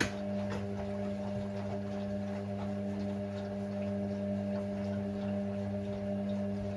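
Hoover Sportswear AI130 washing machine humming steadily early in a Speed Wash cycle, with faint light ticks over the hum.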